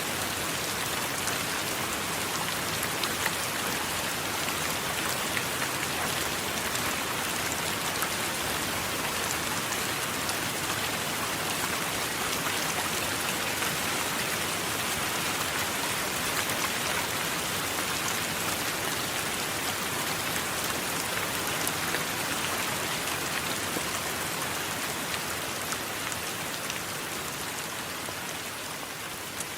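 Steady rain: a dense hiss of falling water flecked with small drop ticks, easing slightly in loudness near the end.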